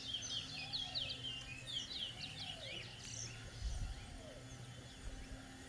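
Towa-towa (chestnut-bellied seed-finch) singing a competition song: a fast run of high chirping notes for about two and a half seconds, then a few scattered shorter notes. A brief low rumble comes near the end.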